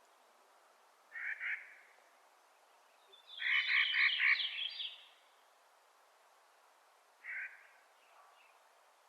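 Clark's nutcracker giving harsh, grating, pulsed calls, three in all: a short one about a second in, a longer one from about three to five seconds, and a short one near the end.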